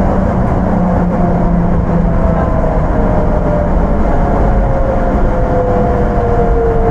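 Onboard running sound of an Astram Line 6000 series rubber-tyred train with thyristor armature-chopper control: a steady loud rumble with a thin whine that falls slowly in pitch as the train slows.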